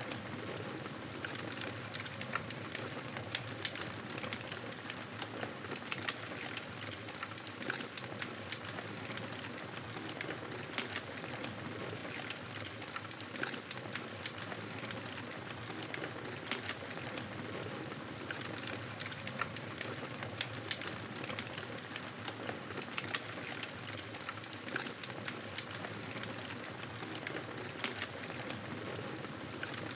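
Wood fire crackling steadily: frequent sharp pops and snaps over a soft, even hiss of burning.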